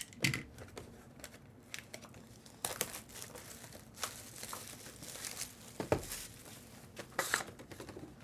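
Plastic and foil wrapping of a trading-card box and packs crinkling and tearing as it is opened by hand, in short irregular rustles, with a soft thump about six seconds in.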